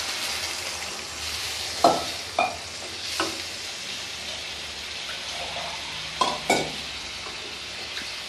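Chicken and spice masala sizzling in a kadai, with a spoon knocking sharply against the pan about five times as it is stirred.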